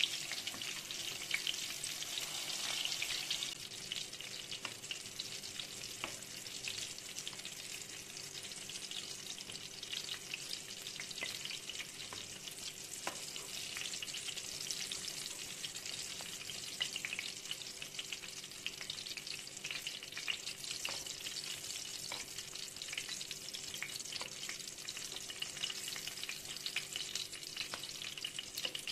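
Egg-and-flour-coated meatballs of beef mince and rice frying in hot vegetable oil: a steady sizzle with crackling pops throughout, a little louder for the first few seconds.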